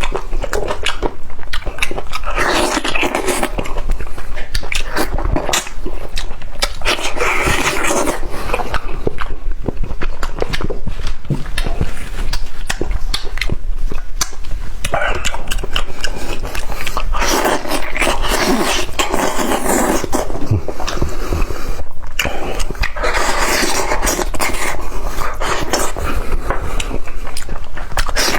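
Close-miked eating sounds of someone working through spicy lamb meat on the bone: wet chewing, lip smacking and sucking, a constant run of sharp mouth clicks with breathy bursts.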